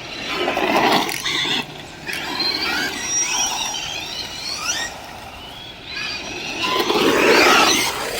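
Electric RC cars' motors whining, the pitch rising and falling as they speed up and slow down. Two louder swells of rushing noise, about a second in and again near the end, as a car passes close.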